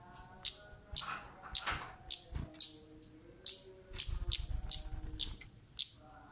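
Kemade bird giving a rapid series of short, sharp high 'cit' calls, about two a second, a recording used as a lure call to get other kemade birds calling.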